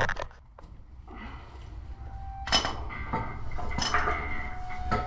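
Metal objects clinking and knocking, with two sharper knocks in the middle, over a steady low hum.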